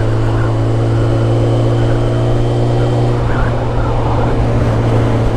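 Kawasaki ZZR600 inline-four motorcycle engine running at a steady cruising speed, heard from the rider's position. There is a slight change in engine note about three seconds in.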